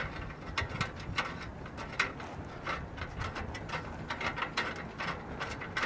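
Irregular light metallic clicks and taps from hands and tools handling the exhaust heat shield and a hose clamp.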